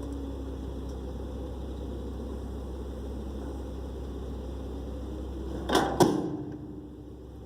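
A vehicle engine running steadily as a low hum, broken by two sharp knocks close together near the end.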